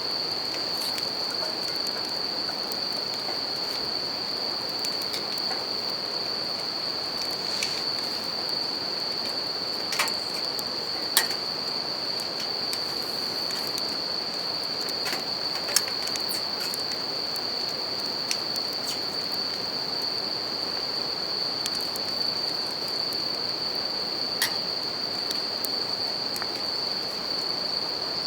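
Japanese bell crickets (suzumushi) singing in a steady high-pitched ring, over a constant wash of river water and a wood campfire, which gives a handful of sharp crackling pops.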